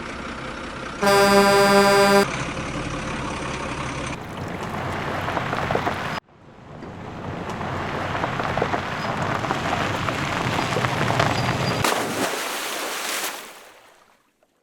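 A vehicle horn honks once for about a second over a steady rush of splashing water. The water sound breaks off briefly, swells back up, and fades away near the end.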